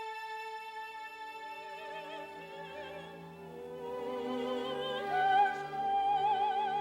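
Operatic music: singing with orchestra, the held notes wavering with a wide vibrato and leaping up to a higher, louder held note about five seconds in.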